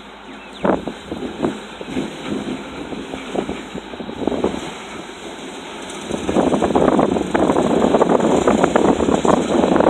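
Mack RD dump truck unloading: a few scattered knocks, then about six seconds in a loud, dense rattling rush as the load pours out of the raised dump bed.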